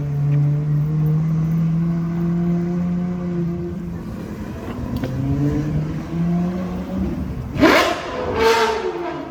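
A supercar engine running with a steady low note that rises slightly and then fades away. Near the end, two loud, quick revs sweep up and back down about a second apart.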